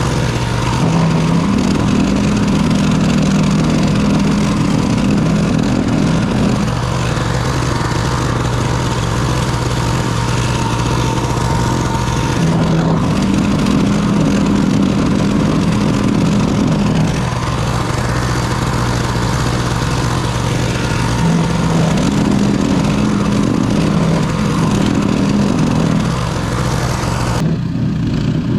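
Small snowblower engine running steadily, its pitch shifting up and down every few seconds as the load changes.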